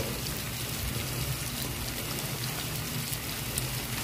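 Chopped onion, tomato and green chili sizzling steadily in hot oil in a wok.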